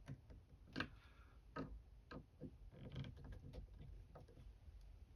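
A few scattered light clicks and taps, irregularly spaced, from hands handling window parts during reassembly.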